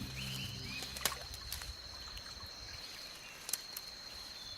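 Quiet rainforest and water ambience: a steady, high, thin insect whine over faint trickling water, with a few sharp clicks. Low background music fades out in the first second.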